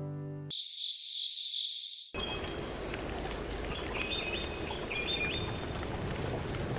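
Banjo music fading out, then a high-pitched rapidly pulsing call for about a second and a half, followed by steady outdoor hiss with short bird chirps.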